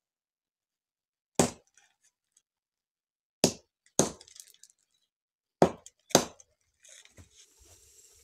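Hard Syrian juniper (andız) stones being struck to crack them open: five sharp cracks, spaced one to two seconds apart, with the last two strikes coming in pairs about half a second apart.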